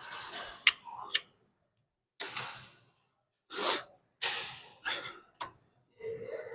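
A person breathing hard through a strenuous weightlifting set, with a forceful exhale about every second and a short strained grunt near the end. Two sharp clicks sound about a second in.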